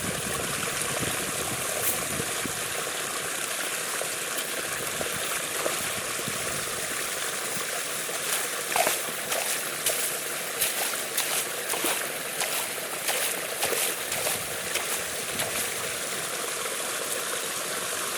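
Water flowing steadily as it drains, with irregular sharp splashes and gurgles breaking in through the second half.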